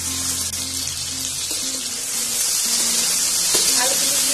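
Potato chunks and sliced onion frying in hot oil in a kadai: a steady sizzle that grows louder about two and a half seconds in, over soft background music.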